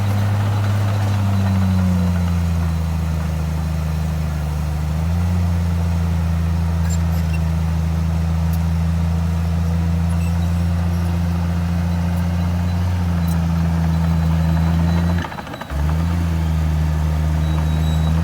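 Large diesel engine of heavy earthmoving machinery running steadily under load, its pitch stepping a few times, with a brief break about fifteen seconds in.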